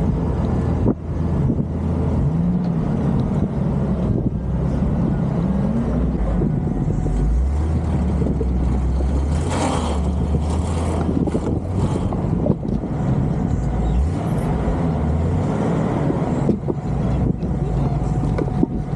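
Jeep Cherokee XJ engine running under load while crawling an off-road obstacle course, its pitch rising and falling with the throttle, with scattered knocks and clunks from the body and suspension.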